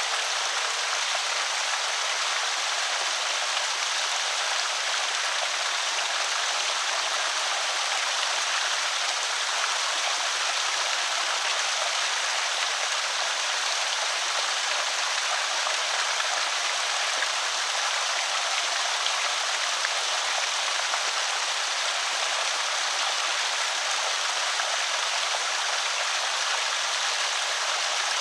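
Water pouring steadily over a small creek spillway: an even rushing splash with no breaks.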